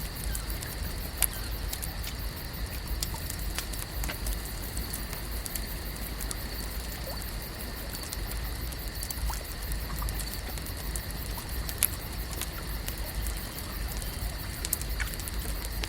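Lake ambience: a steady low rumble and a steady high hum, with small patters and ticks scattered throughout and two sharper clicks, about a second in and near twelve seconds.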